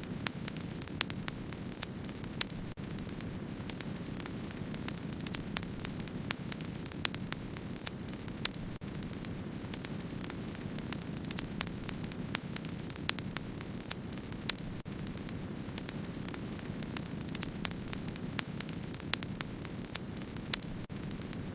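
Wood-burning campfire crackling: a steady low rush of burning with frequent small, sharp crackles and occasional pops at irregular intervals.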